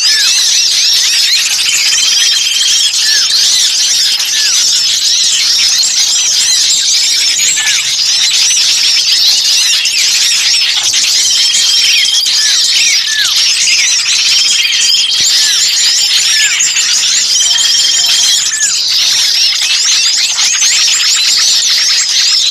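A dense chorus of small songbirds' agitated, squeaky chirps, the 'ribut kejepit' calls of small birds that sound caught, used as a lure to draw other birds in. Short level trills recur every two to three seconds, and short falling notes come now and then beneath the high chattering.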